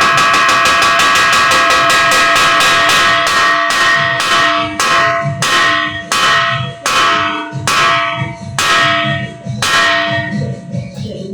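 Bells being rung in a peal, each stroke ringing on: at first the strokes come very fast and run together, then a few seconds in they slow to about two strokes a second.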